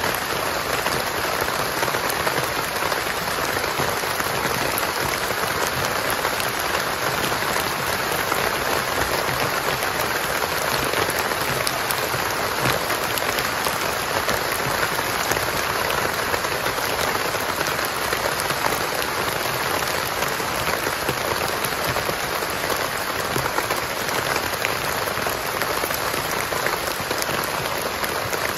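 Heavy rain falling steadily: a dense, even hiss of many fine drop impacts that neither builds nor eases.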